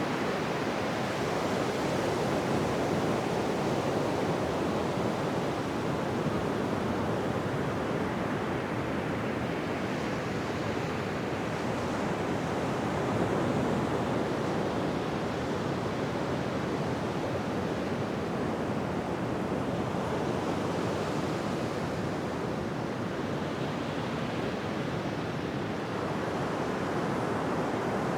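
Ocean surf washing onto a beach: a steady, even rush of waves that swells and eases gently.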